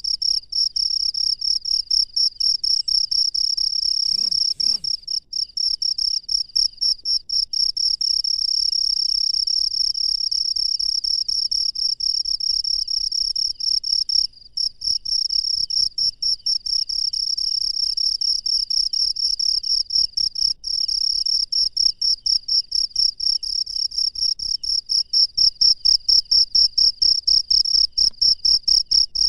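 Cricket calling at night: a loud, steady, rapidly pulsing high-pitched trill, with one short break about halfway through. Over the last few seconds the pulses grow louder and more distinct.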